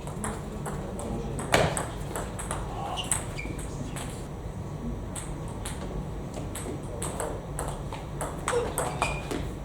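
Celluloid-style table tennis balls clicking off bats and table tops: an irregular run of sharp light clicks, with a louder hit about a second and a half in.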